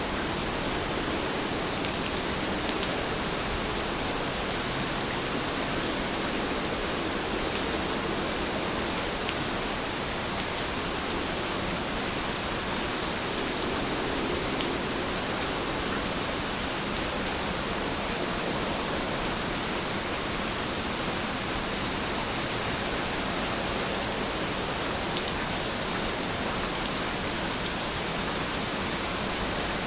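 Steady rainfall, an even hiss of rain with a few faint scattered drop ticks.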